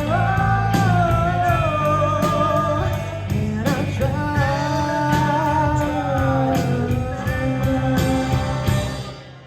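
Live rock band (electric guitar, bass and drums) playing the end of a song, with a held, wavering vocal or lead line over steady bass notes and regular cymbal hits. The music dies away near the end.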